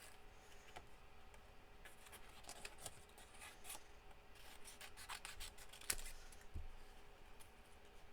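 Scissors snipping card by hand: runs of short quick snips through the middle few seconds, with one sharper click about six seconds in.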